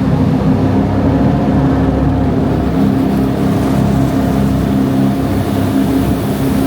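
Tour jet boat's engine running steadily at cruising speed, heard from on board as an even, pitched hum.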